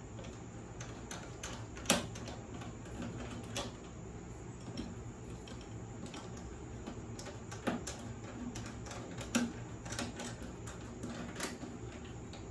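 Irregular light clicks and knocks of metal parts being handled while a deck belt is fitted around a riding mower deck's pulleys and belt guards, with three louder knocks about 2, 7.5 and 9.5 seconds in.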